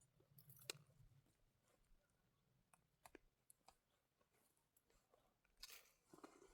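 Near silence broken by a few faint, scattered clicks.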